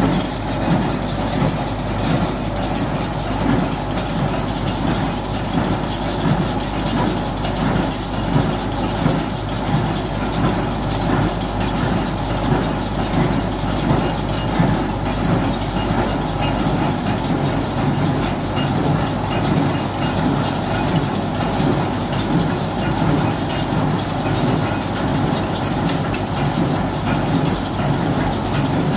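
Steyr 1400a tractor engine running with the Welger AP12 round baler working, a continuous rhythmic mechanical clatter.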